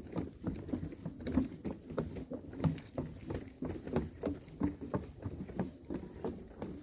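Footsteps of people walking on a forest path: a quick, irregular run of short steps, several a second.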